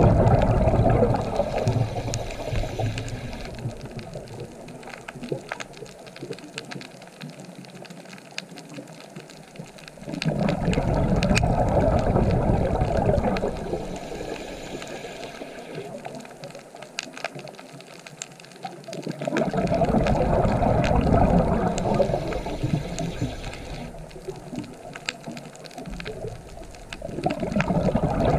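Underwater sound of a scuba diver's exhaled bubbles rushing from the regulator in surges about every nine seconds, with faint crackling ticks in the quieter stretches between breaths.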